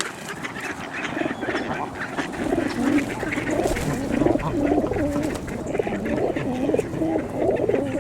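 A flock of ducks and geese calling, many short overlapping calls that grow busier about two and a half seconds in.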